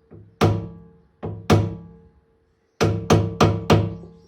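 Hammer tapping a screwdriver against the metal hub dust cap of a rear brake drum to knock it off: sharp metallic taps that ring. Four spaced taps come first, then four quicker ones near the end.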